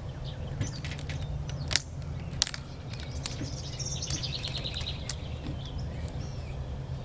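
Two sharp snaps about two seconds in, rubber bands being stretched and let go onto a watermelon, over a steady low outdoor rumble, with a bird trilling briefly midway.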